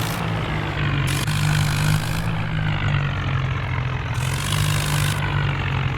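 Tractor diesel engine running steadily at a low, even speed, with a high hiss that cuts in and out abruptly several times.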